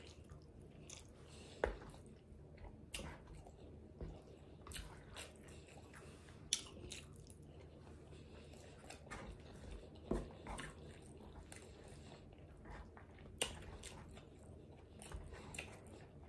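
Close-miked chewing of a mouthful of Chipotle rice bowl, soft and wet, with scattered short sharp clicks from the mouth and fork.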